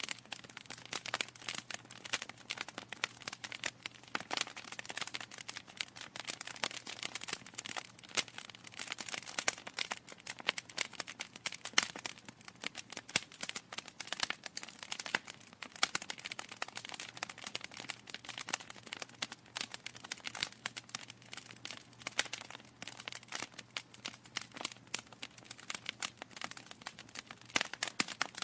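Wood fire in a fireplace crackling: a dense, irregular run of pops and snaps from burning logs, with a sharper pop about twelve seconds in.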